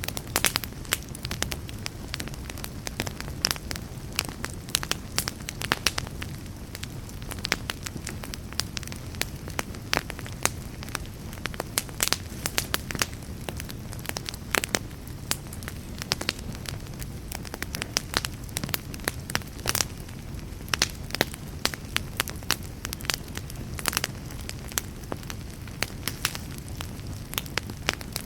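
A wood fire burning, with irregular sharp crackles and pops over a steady low rumble of the flames.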